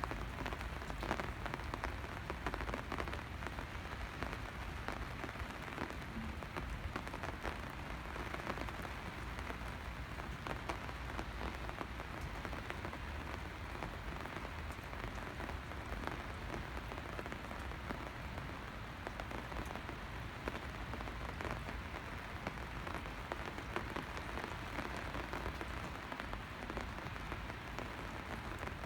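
Steady rain falling, heard as a constant hiss with a dense scatter of small drop ticks close by.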